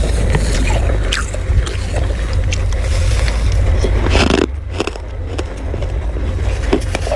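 Crunchy freezer frost being scraped by hand and bitten: a dense run of crisp crackling crunches over a steady low rumble.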